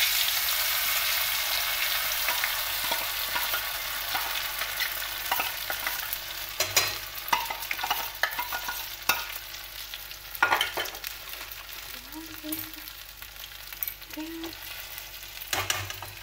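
Tapioca pearls (sabudana) going into hot oil in a steel kadhai and frying: a steady sizzle, loudest at first and slowly dying down. Sharp clinks and scrapes of a spoon and a steel ladle against the bowl and pan come through it, mostly in the middle.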